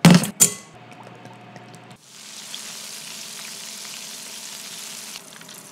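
Two loud, sharp knocks right at the start. From about two seconds in, flour-dredged king oyster mushroom pieces sizzle steadily as they deep-fry in hot oil.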